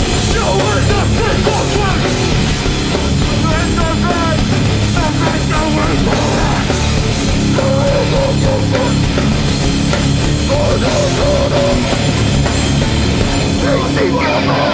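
Live hardcore band playing at full volume: distorted guitars, bass and drums, loud and unbroken.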